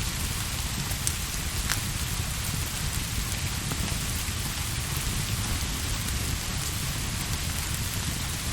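Steady rain pattering, with a low rumble underneath and a few sharp ticks.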